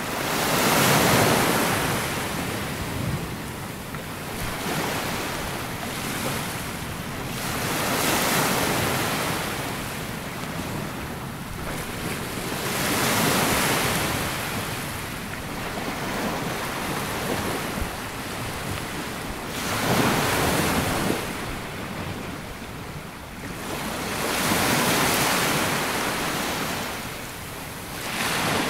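Small sea waves breaking and washing up a sandy beach, a wash of surf that swells and fades about every five to six seconds, with some wind noise on the microphone.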